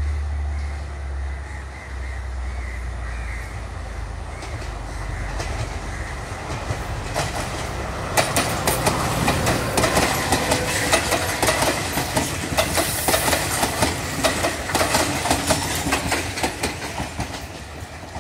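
Sri Lanka Railways Class S8 diesel multiple unit passing close by: a low drone in the first few seconds, then from about eight seconds in a rhythmic clickety-clack of its wheels over the rail joints, about two clacks a second, fading near the end.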